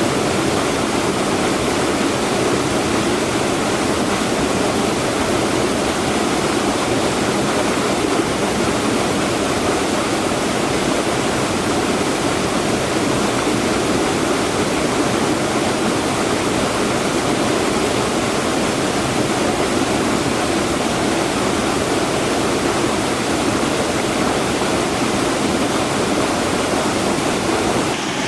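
Rushing water of a highland waterfall, a steady unbroken rush with most of its weight in the low-middle range.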